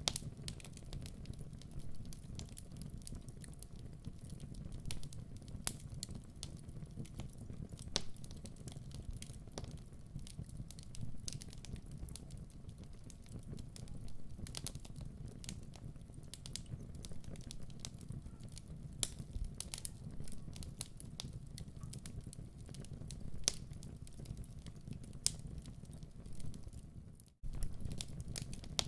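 Wood fire crackling in a fireplace: irregular sharp pops and snaps over a low, steady rumble. The sound cuts out for an instant near the end.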